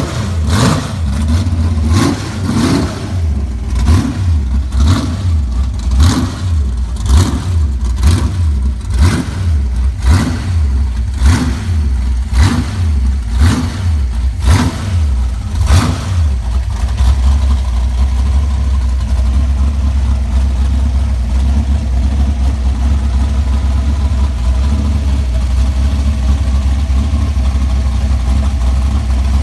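Chrysler 440 big-block V8 with a tunnel ram, revved in quick throttle blips a bit more than once a second. After about sixteen seconds it settles into a steady, deep idle.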